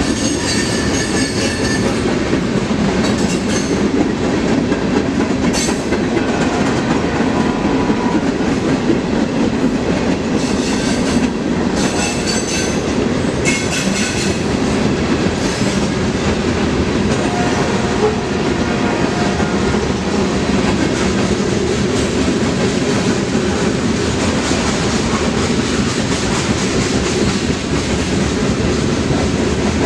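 A freight train's cars rolling past: a steady, loud rumble with scattered clanks and clicks from the wheels on the rail.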